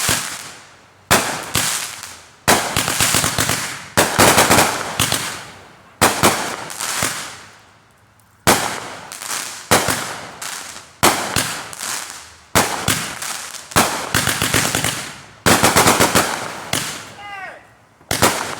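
A 500 gram, 49-shot consumer fireworks cake firing. Volleys of sharp bangs come about every second or two, each launch followed by a burst of crackling pops.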